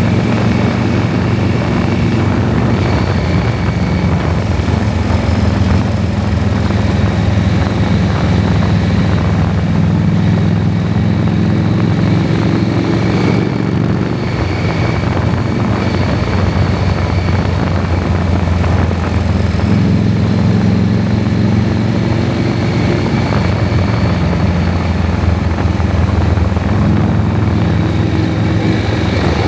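KTM 790 Adventure's parallel-twin engine running on the move at a mostly steady cruise. Its note shifts briefly about 13 seconds in and again about 20 seconds in.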